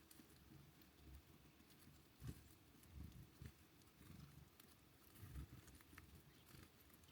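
Near silence with a few faint, soft low thumps at uneven intervals and occasional light ticks.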